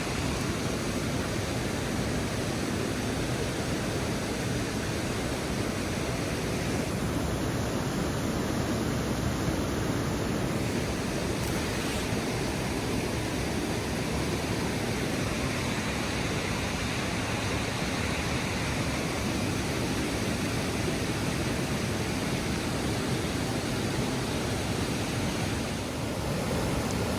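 Waterfall about three feet away: a steady, unbroken rush of falling water.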